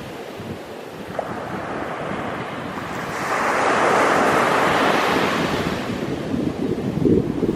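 Ocean surf on a beach, a wave swelling and washing in about three seconds in and then easing off. Wind buffets the microphone with low rumbles near the end.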